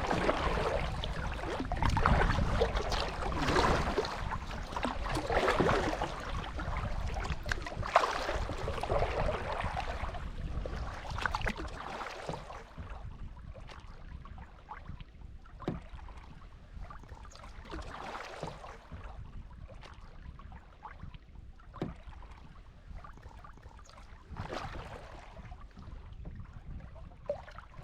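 Kayak paddle strokes swishing and splashing in lake water, about one every two seconds. About twelve seconds in the strokes stop and only quieter water lapping remains, with a few light knocks.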